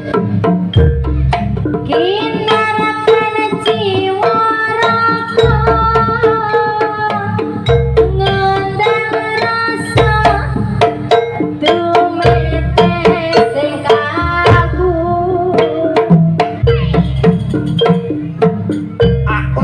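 Jaranan music: a Javanese drum-led ensemble, with kendang hand drums keeping a driving rhythm under a pitched melody line that holds notes and slides between them.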